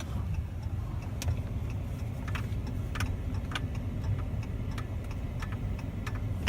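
Steady low road and engine rumble inside a moving car, with scattered light clicks or ticks every half second to a second.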